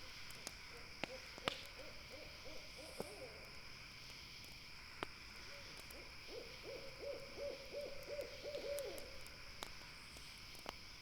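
An owl giving two rapid trills of quick repeated hoots, a short one about half a second in and a longer, louder one about six seconds in. Under it a campfire crackles with a few sharp pops, over a steady high-pitched background drone.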